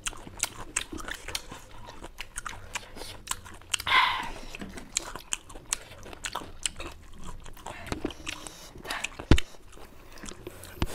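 Close-up mouth sounds of people chewing and sucking on sour lemon wedges: many small wet clicks and smacks. A short louder hissing sound comes about four seconds in, and a single thump comes near the end.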